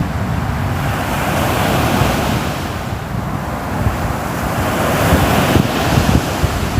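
Sea waves breaking and washing onto the shore, the surf swelling twice with a lull between.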